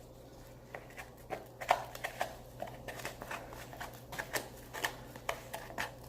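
A utensil stirring a cup of baby cereal mixed with water: irregular light clicks and scrapes against the cup, several a second.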